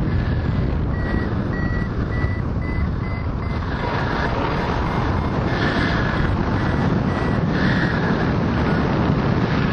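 A hang glider's variometer beeping, short high beeps about twice a second, the sign that the glider is climbing in lift. Heavy wind rushes over the microphone underneath.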